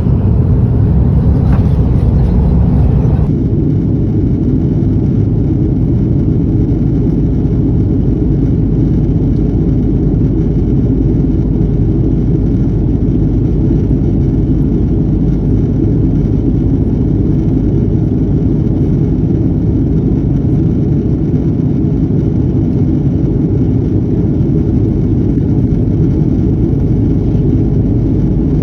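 Steady low rumble of an airliner's engines and airflow heard inside the cabin. About three seconds in, the higher hiss drops away and only the even low roar remains.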